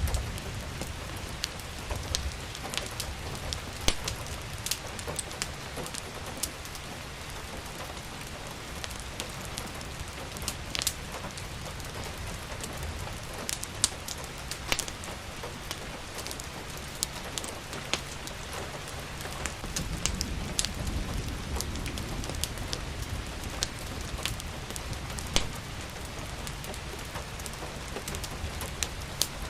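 Steady rain with sharp pops and crackles from a wood fire scattered throughout. A low rumble swells for a few seconds about two-thirds of the way through.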